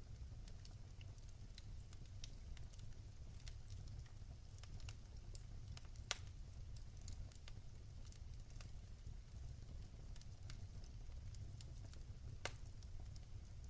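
Wood fire burning in a fireplace, with a steady low rumble of the flames and scattered crackles; two louder pops, about six seconds in and near the end.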